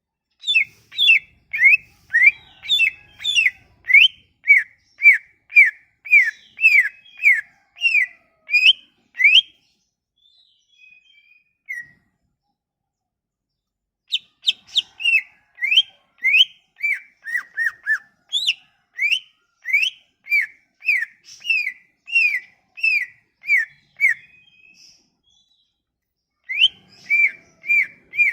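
Songbird singing a string of short, sharp downward-sweeping whistled notes, about two a second, in runs several seconds long broken by pauses of a few seconds. It is a bird-song recording of the kind played as a lure to set a silent cucak ijo (green leafbird) singing.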